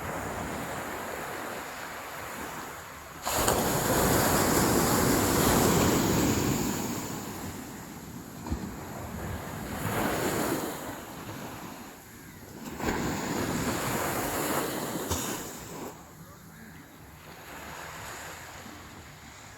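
Sea waves breaking and washing up the shore in several surges, the loudest coming in suddenly about three seconds in and fading over the next few seconds, with wind buffeting the microphone.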